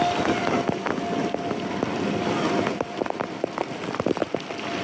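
Water spattering and splashing, with a quick run of small splashes and drips about three seconds in, over a faint steady tone in the first half.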